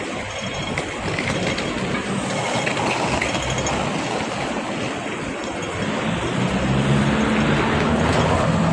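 City street traffic noise, with a vehicle's low engine hum growing louder over the last few seconds as it approaches.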